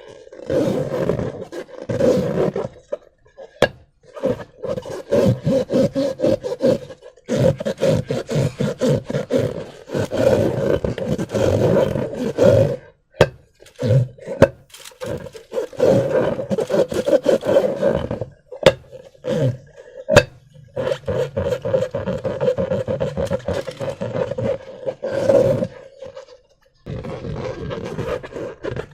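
Rubber balloons being rubbed and squeezed by hand, squeaking in repeated stretches of a second or several seconds with short breaks, and a few sharp clicks in between.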